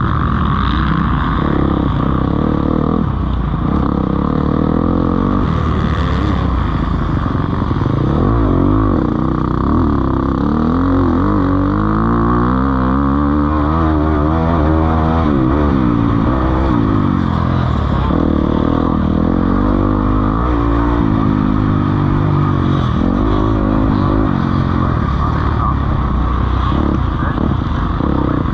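Several motocross bikes racing, their engines revving up and down as they accelerate and shift, with pitches overlapping and crossing one another most thickly around the middle.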